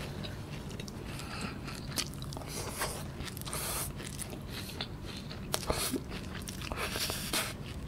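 A person chewing a mouthful of cheese kunafa, shredded kataifi pastry with a mozzarella filling: a steady run of small clicks and soft mouth sounds.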